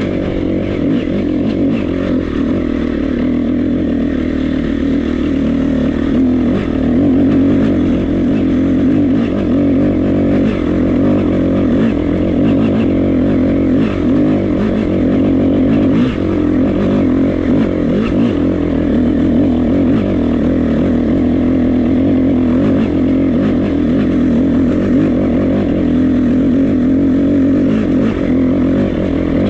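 KTM 350 EXC-F's single-cylinder four-stroke engine running at fairly steady revs while riding.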